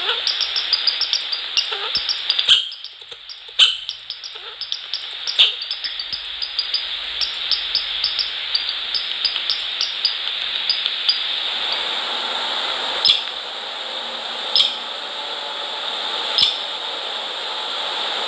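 Light taps and scratches of a small animal feeding at a bird feeder, several a second at first, then sparser, sharper clicks about every second and a half over a steady hiss.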